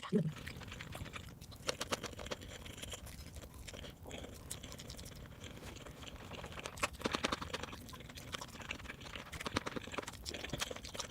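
A person chewing and biting food, a run of quick wet clicks and crunches that gather in busier clusters about a second and a half in, around seven seconds in and near the end.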